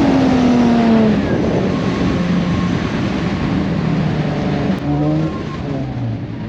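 Drift car's engine coming down from high revs in the first second, then running at lower revs under road and tyre noise, with a brief rise in revs about five seconds in.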